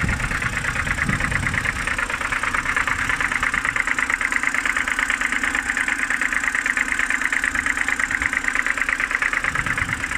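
BMW N52B25 2.5-litre straight-six idling cold, with a steady rapid ticking knock over the engine note; the owner thinks it comes from the oil filter housing side.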